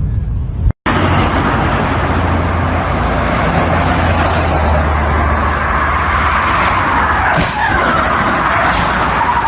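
A car on the road: engine hum and tyre noise after a short cut about a second in, with a few sharp knocks near the end.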